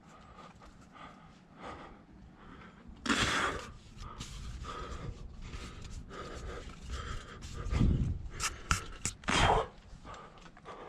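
A climber breathing hard in a rock chimney, with two loud, forceful exhalations, about three seconds in and near the end. A few sharp clicks come shortly before the last breath.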